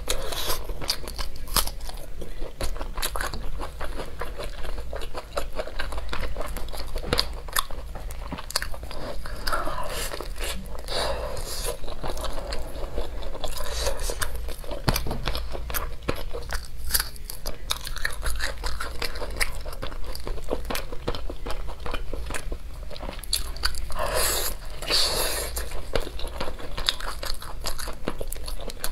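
A person chewing and biting braised pig's trotters: wet mouth sounds with many quick clicks and smacks.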